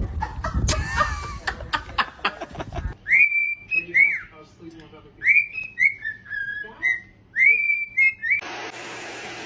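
Clattering and knocking for the first three seconds, then a run of about a dozen short, high whistled notes, each rising and then falling. Near the end a steady rushing hiss sets in.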